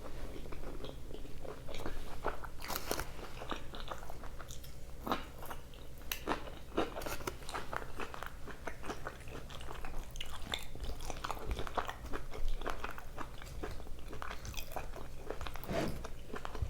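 A person chewing and biting into loaded carne asada fries close to the microphone: wet chewing with many small crunches and clicks.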